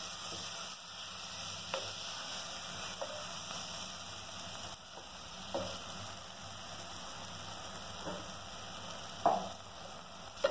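Onion-tomato masala sizzling as it fries in an aluminium pressure cooker, a steady hiss with a few short knocks of a wooden spatula against the pot, the loudest near the end. The masala is being fried dry, before any water goes in.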